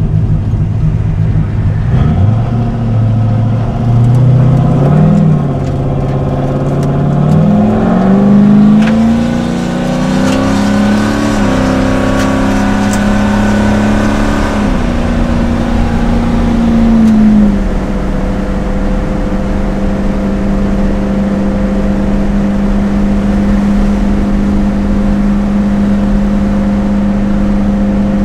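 Turbocharged 5.3-litre LS V8 in a 1968 Pontiac GTO, heard from inside the cabin, accelerating up through the gears of its built Turbo 400 automatic. The engine pitch climbs and drops back at each upshift, about 5, 8, 11 and 17 seconds in, then holds steady at cruising speed.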